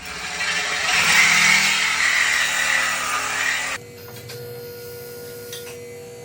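A power tool runs loudly for nearly four seconds, then stops suddenly, leaving a quieter steady hum.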